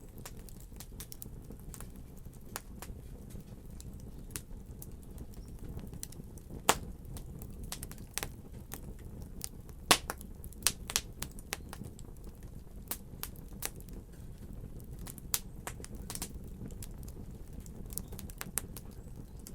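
Fire burning in a fireplace: a steady low rumble with irregular crackles and sharp pops, the two loudest pops about a third and about halfway through.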